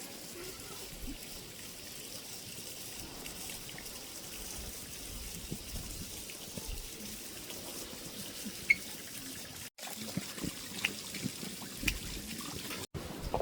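Steady trickle of running water, with scattered small ticks; the sound cuts out briefly twice near the end.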